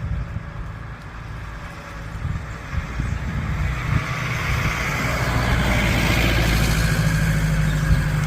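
A motor vehicle's engine and tyre noise, getting louder from about three seconds in as it approaches.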